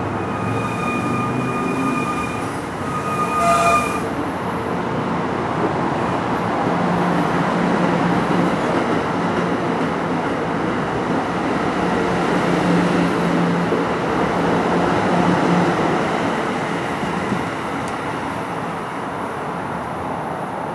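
NJ Transit Multilevel commuter train rolling slowly past at a platform. Its wheels give thin high squeals in the first few seconds, the loudest around three and a half seconds in, over a steady rolling rumble with a low hum through the middle.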